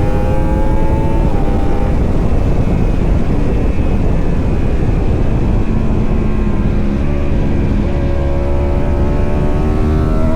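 Racing superbike engines at high revs. The pitch climbs and drops sharply at a gear change about a second in, gives way to a steady rush for a few seconds, then climbs again in a long rising note near the end.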